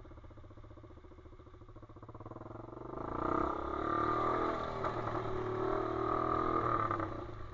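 Pit bike's single-cylinder engine running low and steady, then revving up and getting much louder about three seconds in, holding there for about four seconds and easing off near the end.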